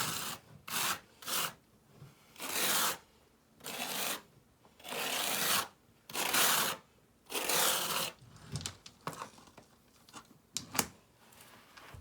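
Rough scraping strokes of masonry work with river rock and mortar, about ten of them, each under a second. They give way to lighter clicks and a sharp knock near the end.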